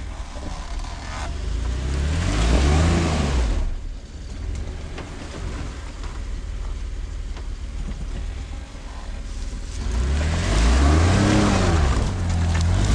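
Jeep engine running under a steady rumble, revving up and back down twice, about two seconds in and again about ten seconds in, each time with a loud rushing noise.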